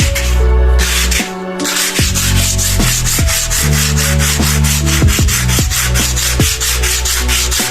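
Abrasive rubbing on a wall being sanded, in quick, even strokes, over background music with a changing bass line.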